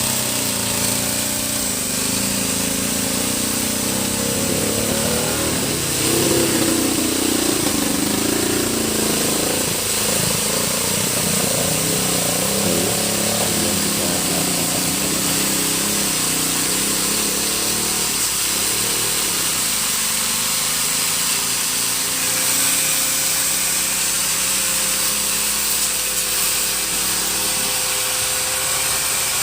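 A machine runs steadily in the background with a continuous mechanical noise that does not change much.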